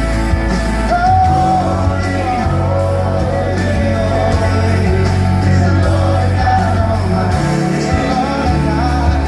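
Worship band playing a Christian rock song live, with a male lead vocal singing over electric guitar, bass and drums in a large hall.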